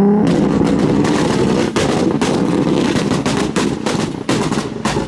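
Modified Toyota Chaser's straight-six engine revving hard, its pitch climbing at the start, then a rapid, crackling string of loud exhaust bangs and pops that runs on under the high revs.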